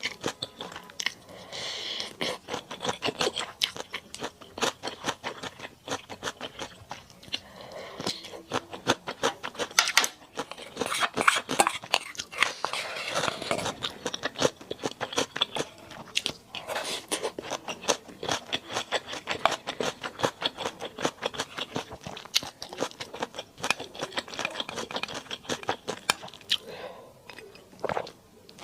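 Close-miked chewing and crunching of mala duck, with quick, irregular crackles and smacks several times a second.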